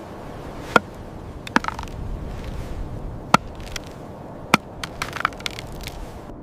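A series of sharp chopping knocks, four strong ones spaced a second or more apart, then a quick cluster of lighter clicks near the end, over a steady rushing wind noise.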